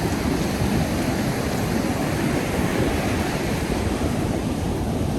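Ocean surf breaking and washing up a sandy beach: a steady rush with no pauses.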